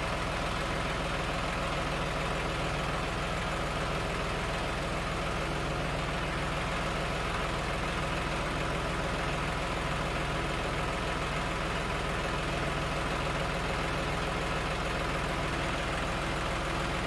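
John Deere 5055D tractor's three-cylinder diesel engine idling steadily.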